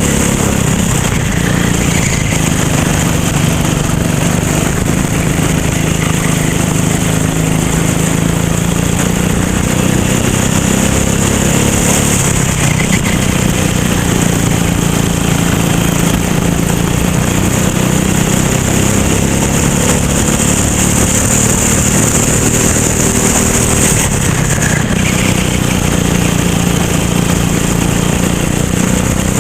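Racing kart engine running hard under race load, its pitch rising and falling gently as the throttle is fed on and off through the corners, with a steady hiss over it.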